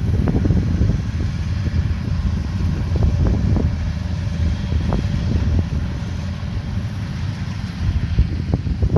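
Rice combine harvester running steadily: a low rumble with a faint steady hum and scattered short knocks, with wind buffeting the microphone.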